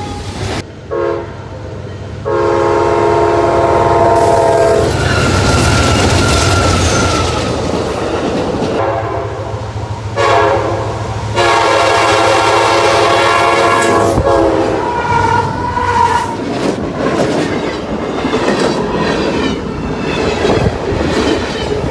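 Freight trains passing close: a multi-chime locomotive horn sounds two long blasts of about three seconds each, over the rumble and wheel clatter of rolling freight cars. The sound changes abruptly several times, as one train pass gives way to another.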